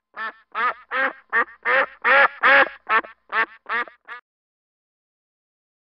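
Duck quacking: a run of about eleven short quacks, two or three a second, loudest in the middle, stopping about four seconds in.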